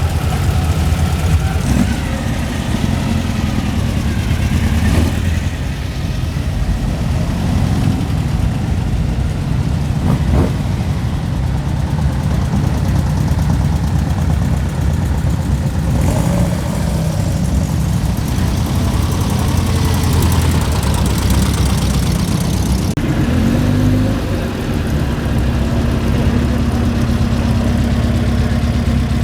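Car engine running steadily at low revs, a continuous low rumble; near the end a steadier low hum joins in.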